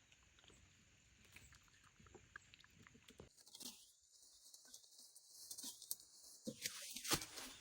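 Small pet rodents moving and nibbling: faint scattered clicks and rustles that grow busier and louder through the second half.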